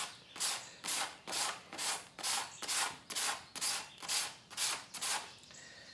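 Sandpaper on a hand sanding block rubbed back and forth over the epoxy tip of a wooden Greenland paddle, about two hissing strokes a second, stopping near the end.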